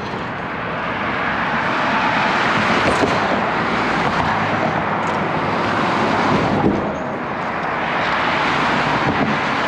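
Steady rush of road traffic along a busy city street, cars passing without a break. It swells a little about two seconds in and dips briefly near the seven-second mark.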